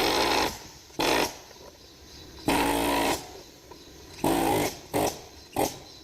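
A power tool run in short bursts, about six times, each half a second or less, with a buzzing whir.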